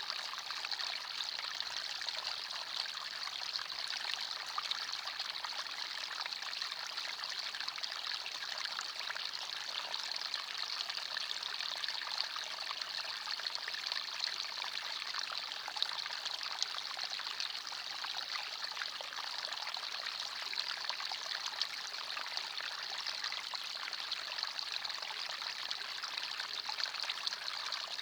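A forest stream running steadily, water trickling and babbling over stones in an even, unbroken flow.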